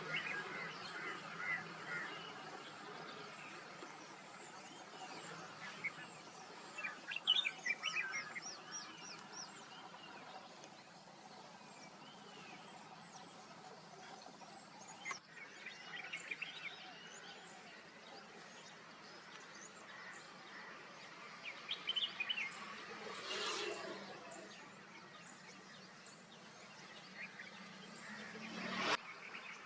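Small birds chirping and twittering in scattered bursts over a steady outdoor background hiss.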